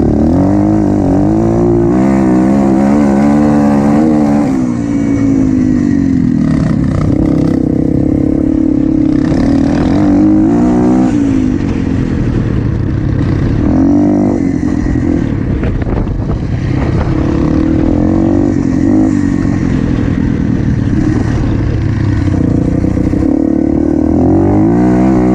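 Motocross bike engine under hard riding, its pitch climbing and dropping again and again as the throttle is worked through the gears.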